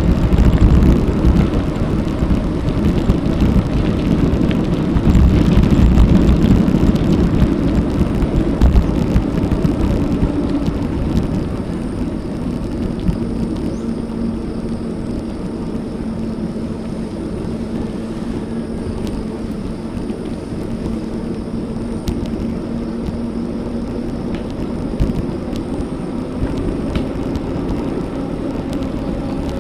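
Wind rushing over an action camera's microphone with tyre and road noise from a bicycle being ridden, louder for about the first ten seconds and then easing to a steadier, lower rush.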